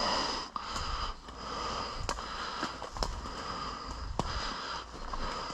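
Scattered single sharp cracks of airsoft guns firing, about five or six at irregular intervals, over a steady background hiss.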